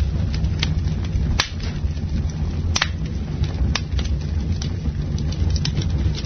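Wood campfire crackling over a steady low rumble, with three sharp pops spread through the crackle.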